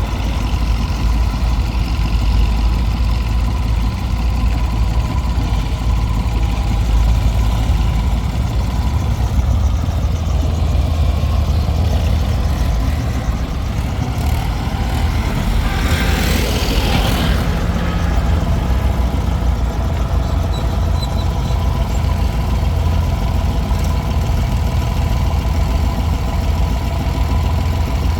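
Heavy diesel engine running steadily with a deep rumble. About sixteen seconds in comes a brief hissing rush lasting a second or so.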